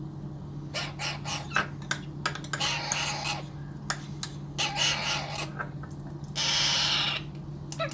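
Baby Alexandrine parakeet being hand-fed, making quick clicking sounds and three raspy begging calls; the last call, about six and a half seconds in, is the loudest. A steady low hum runs underneath.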